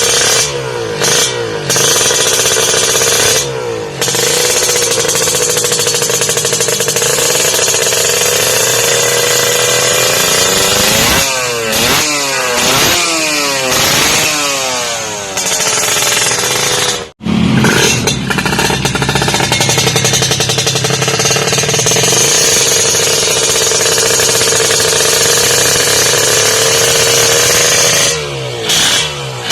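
Two-stroke Kawasaki Ninja 150 engine revving through a WRS aftermarket exhaust: held at high revs, with a series of quick rising-and-falling rev blips in the middle and a sudden brief cut-out partway through before it runs at high revs again.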